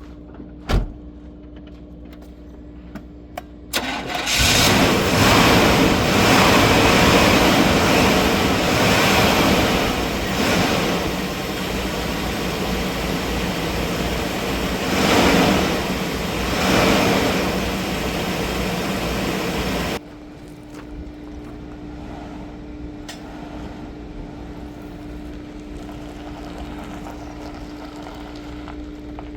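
1998 Chevrolet Tahoe engine cranked and started about four seconds in, then running loudly with two brief revs. About twenty seconds in the sound drops suddenly to a much quieter steady hum.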